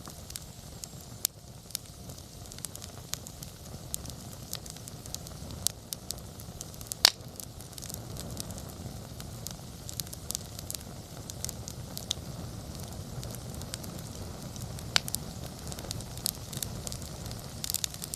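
Wood campfire burning: a steady low rush of flame with scattered sharp crackles and pops, the loudest about seven seconds in.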